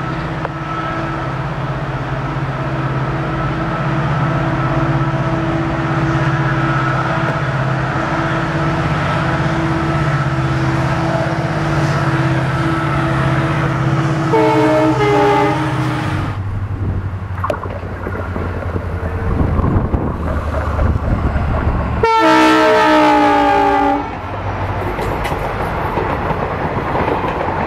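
A train hauled by a locomotive passes with its engine running steadily. The locomotive's horn sounds briefly about 14 seconds in. After a cut there is wheel noise on the rails and a longer, louder horn blast about 22 seconds in.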